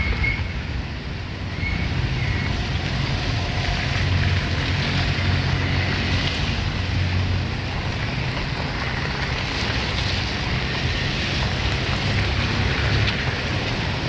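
Steady low rumble of wind on the microphone, mixed with road traffic noise.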